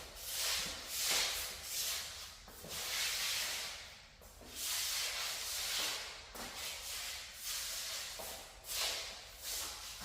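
Shoes scuffing and sliding on a tile floor: a series of soft swishes, roughly one every second or so.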